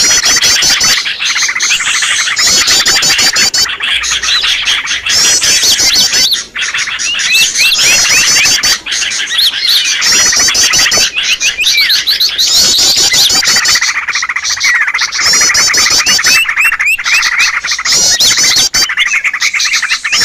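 A dense mix of many small songbirds chirping and calling at once, with a rapid high trill phrase repeating every second or two over continuous lower chirps. It is a layered bird-lure recording made to draw in small wild birds.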